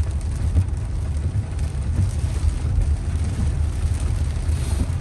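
Steady low road rumble of a Honda Pilot heard from inside the cabin while it drives on a rain-wet road.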